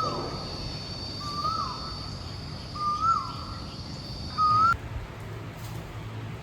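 A bird calling outdoors, giving a short whistled note that rises and then drops, about every second and a half, four times, over a steady high-pitched whine. Both cut off abruptly a little after two thirds of the way through.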